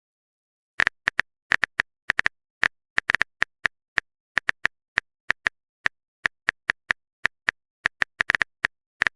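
Phone keyboard typing sound effect: a string of short, sharp taps at an uneven pace, a few a second, starting about a second in.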